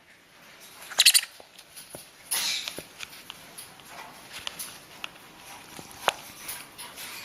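Baby jenday conures calling during syringe hand-feeding: two loud short bursts, about a second in and around two and a half seconds in, with scattered small clicks between.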